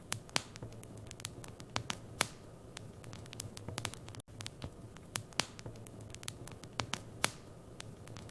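Wood fire in a fireplace crackling, with irregular sharp pops and snaps of varying loudness over a soft hiss and a low steady hum.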